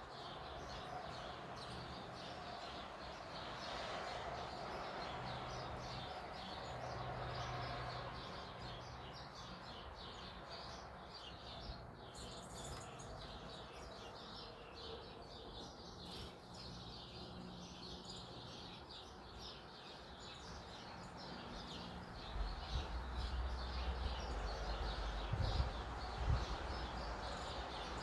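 Many small birds chirping, a dense run of short calls, with a low rumble coming in near the end.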